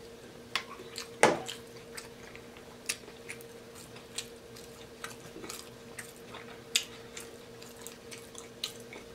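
Close-miked eating mouth sounds: a swallow from a drink can about a second in, then chewing with scattered wet smacks and clicks of the lips and tongue, over a steady low hum.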